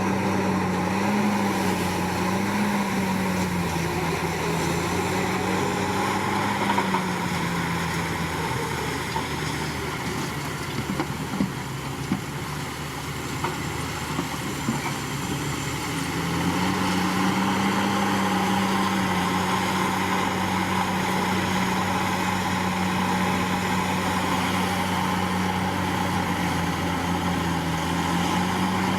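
Komatsu D61PX crawler bulldozer's diesel engine running under load, its note wavering slightly. The engine drops back for several seconds midway, with a few sharp clanks, then picks up again and holds steady.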